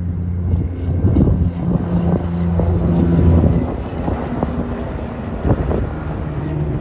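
Semi truck's diesel engine droning as the truck goes by, loudest in the first three or four seconds and then fading, with wind buffeting the microphone.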